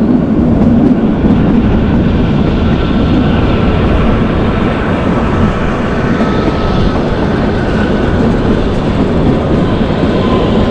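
Kalka–Shimla narrow-gauge toy train running along the track: a steady, loud rumble of the moving coach.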